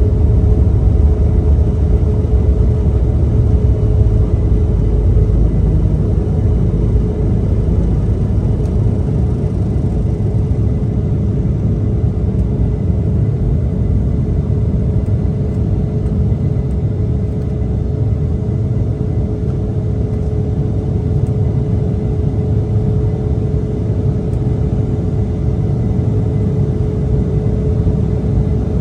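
Cabin noise of an Embraer E170 in flight: a steady rumble of the General Electric CF34 turbofans and airflow, with a steady hum running through it.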